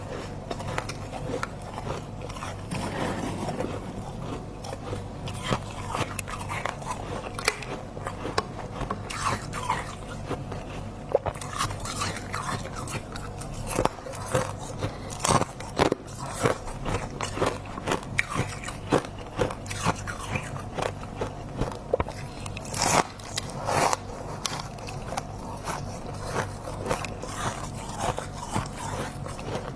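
Close-miked biting and crunching of freezer frost, with irregular sharp crunches and some scraping over a steady low hum.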